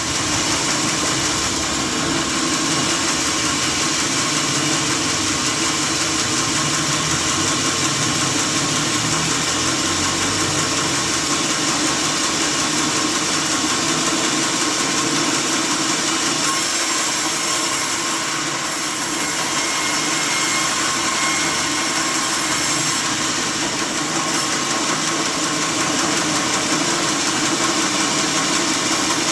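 Sawmill machinery running steadily: a loud, even mechanical noise with a constant hum and no pauses.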